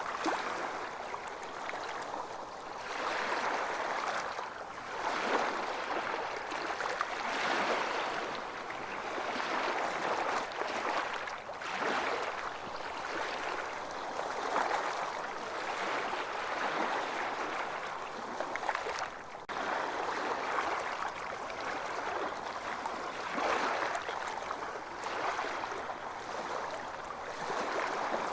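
Waves washing onto a beach, the water noise swelling and easing every few seconds.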